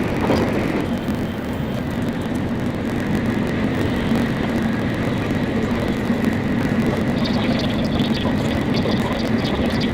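Steady running noise of a Shinkansen Nozomi at speed, heard from inside the passenger car: a constant rumble and hiss with a faint high tone, and light clicking from about seven seconds in.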